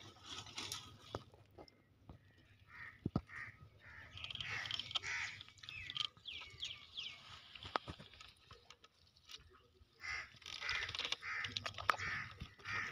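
Birds calling again and again, with a run of quick falling chirps about six seconds in, and a few sharp clicks close by.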